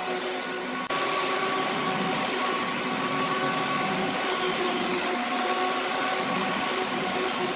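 Electric power tool motor running steadily, a hissing whine with a few steady tones. The sound changes abruptly about a second in.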